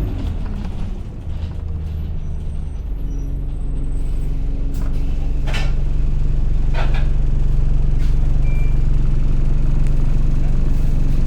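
Alexander Dennis Enviro200 single-deck bus engine heard from inside, running with a steady low drone that grows louder from about four seconds in as the bus pulls away. A few short hisses of air come around the middle.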